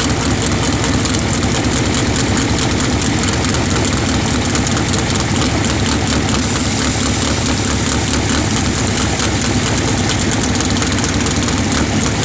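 Pro Comp drag race car engine idling loud and steady in a cackle fest, a dense rapid firing rattle with no revving.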